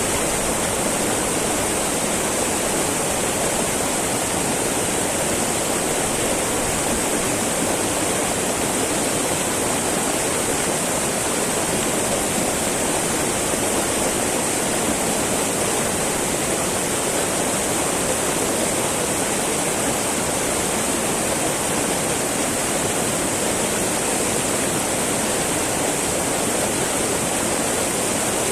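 Small mountain river babbling and rushing over rocks, a steady, unbroken water sound.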